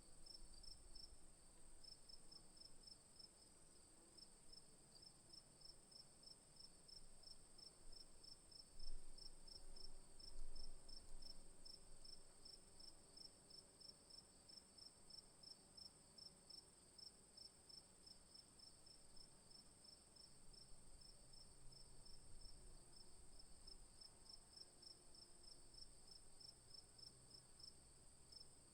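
Faint insects chirping: a steady high whine with a fast, even pulsing just below it. Two brief louder noises come about a third of the way in.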